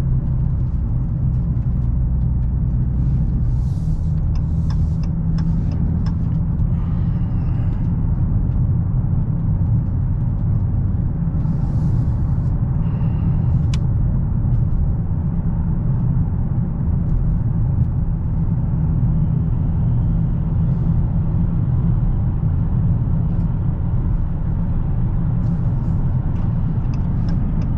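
Dodge Challenger Hellcat's supercharged 6.2-litre V8 cruising steadily under light load while the engine is being broken in, with a continuous low engine and exhaust rumble and road noise heard from inside the car. A few faint clicks are heard about 4 s and 13 s in.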